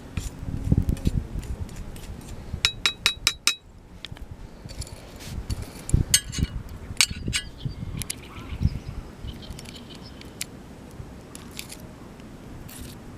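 Cookware and utensils clinking as they are handled: a quick run of ringing metallic clinks about three seconds in, then a few sharper clinks around six to seven seconds.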